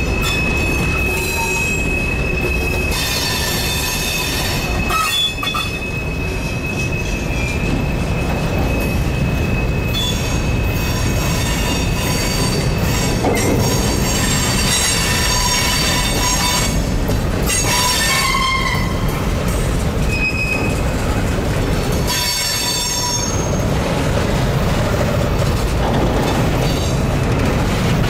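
Freight cars (covered hoppers and boxcars) rolling past on steel rails with a steady rumble, and high-pitched wheel squeal that comes and goes, one long squeal holding for about the first ten seconds.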